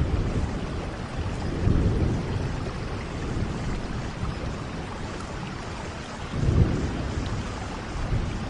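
Steady rain with low rolls of thunder, swelling about two seconds in and again near seven seconds.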